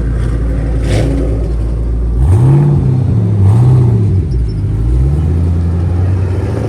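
A car engine idling, then revved twice in quick succession a little over two seconds in, the pitch rising and falling back each time before it settles to a steady idle.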